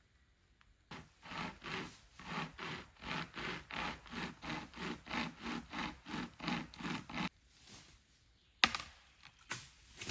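Hand saw cutting through fallen wood in quick, regular back-and-forth strokes, about three a second, for some six seconds. A single sharp knock follows near the end.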